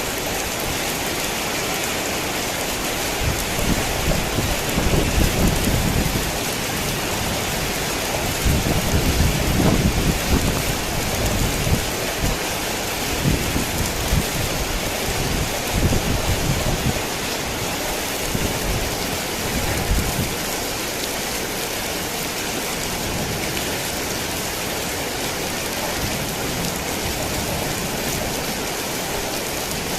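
Heavy rain falling steadily, with a long low rumble of thunder from a few seconds in until about two-thirds of the way through.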